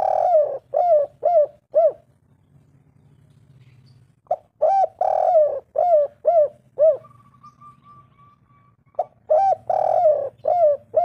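Spotted dove cooing: three phrases of about five or six short, arching coos each, with a pause of a couple of seconds between phrases. A faint thin steady whistle-like tone sounds briefly between the second and third phrases.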